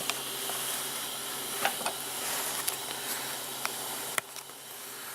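Welder's cooling fan running, a steady hiss with a low electrical hum and a few small clicks, while the machine cools after welding; the hiss drops in level about four seconds in.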